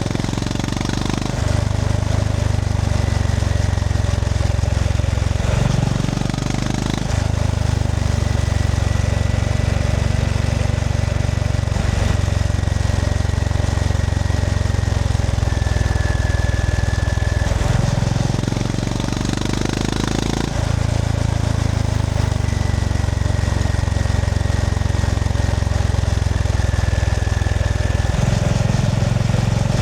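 Honda GB350S's air-cooled single-cylinder engine running steadily while riding. Its note changes briefly at the start, around six seconds in, for a couple of seconds around eighteen to twenty seconds in, and again near the end.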